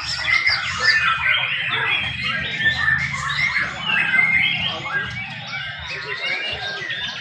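Several young white-rumped shamas singing at once, a dense, continuous tangle of rapid whistles, chirps and squawking phrases, over a steady low background murmur.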